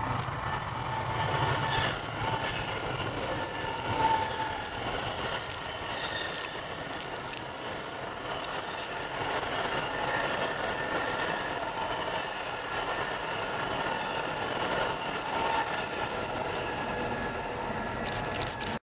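A train running on the track: a steady rumble with thin, high wheel-squeal tones. The sound cuts off suddenly near the end.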